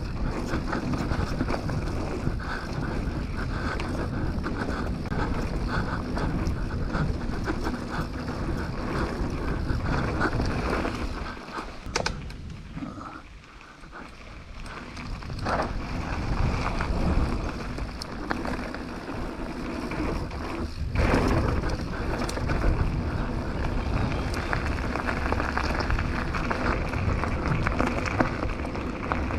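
Canyon Torque full-suspension mountain bike riding down a rough trail: tyres rolling over roots and stones, with continuous rattling and sharp knocks from the bike. It goes quieter for a couple of seconds about halfway through, then picks up again.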